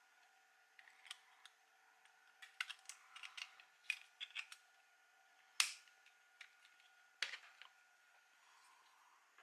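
Small 3D-printed plastic parts being handled: a run of light clicks and taps, with two sharper clicks a little past halfway.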